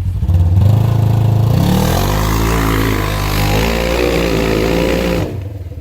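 Polaris RZR side-by-side engine revved hard for a run up a steep bank. It comes up suddenly, climbs in pitch over about a second and a half, holds high, then drops back to idle near the end.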